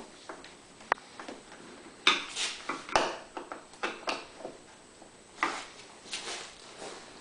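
Light clicks, taps and scraping of hand tools and small parts being handled on a portable generator, with one sharp click about a second in and busier clatter a couple of seconds in.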